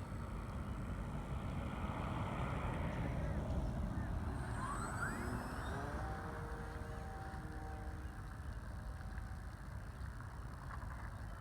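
Electric motor and propeller of an E-flite T-28 Trojan RC plane flying, its whine rising in pitch about five seconds in, over heavy wind rumble on the microphone.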